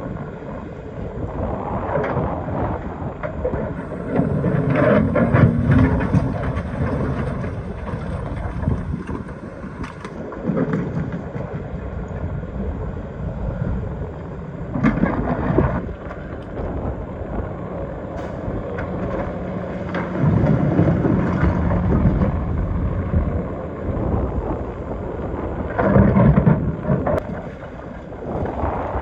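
Excavator's diesel engine working under load, rising in louder surges several times as the machine digs, with scraping and knocking of the bucket against rock.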